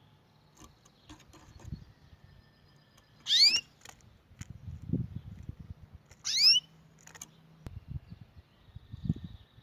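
Canary giving two short rising call notes about three seconds apart, with low rumbling and thumps between them.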